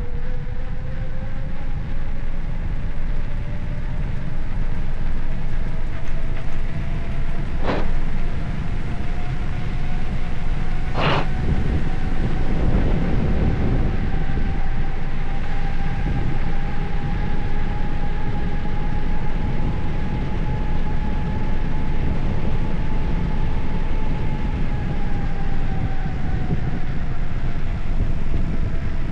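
Wind rushing over the microphone and road noise of a moving bicycle, with a faint hum that slowly rises in pitch and drops again near the end, as with a change in speed. Two sharp clicks come about a third of the way in.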